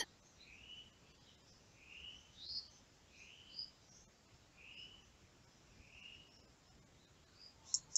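Faint bird chirps: short rising calls repeated about once a second. A quick run of high clicks comes near the end.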